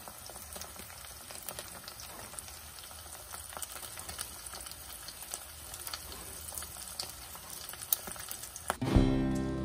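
Slices of bánh chưng shallow-frying in oil in a pan: a steady sizzle with scattered small pops and crackles. Guitar music comes in abruptly near the end.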